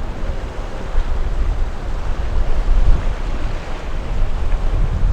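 Wind buffeting the microphone: a gusty low rumble that swells and drops.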